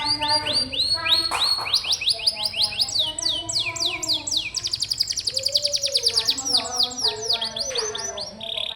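Domestic canary singing: fast trills of rapidly repeated, downward-sweeping high notes, changing from one trill to the next without pause.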